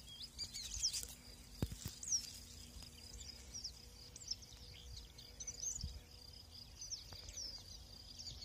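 Small songbirds chirping in an open meadow: many short, quick chirps that rise and fall, over a faint, high, steady note.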